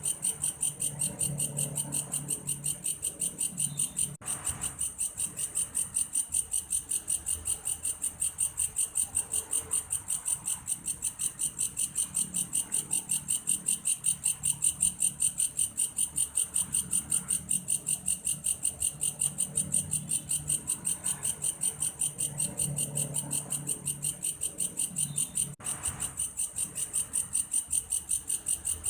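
Belalang kayu, an insect with a cricket-like call, singing a steady high-pitched pulsed trill of about three to four pulses a second, broken only by two momentary gaps.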